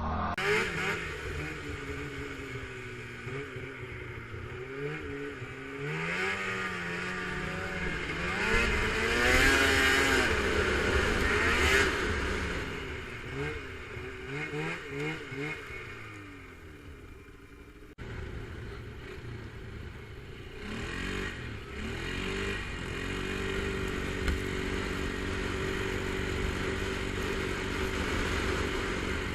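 A small off-road vehicle engine revving up and easing off again and again, loudest from about 8 to 12 seconds in. There is an abrupt cut about 18 seconds in, after which it runs at a steadier speed.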